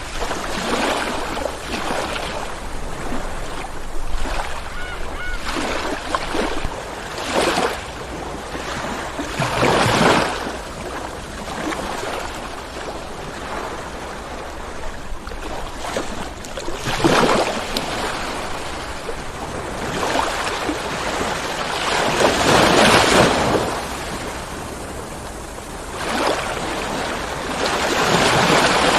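Ocean surf rolling onto a shore: a steady wash of water with waves breaking every few seconds, the biggest about 10, 17 and 23 seconds in.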